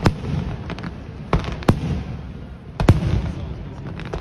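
Fireworks exploding overhead: about five sharp bangs at uneven intervals over a steady low rumble.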